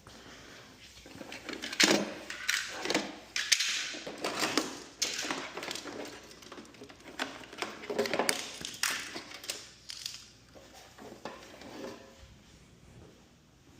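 Tools and metal hardware clattering and clicking in quick, irregular knocks and rattles, busiest in the middle and thinning out near the end.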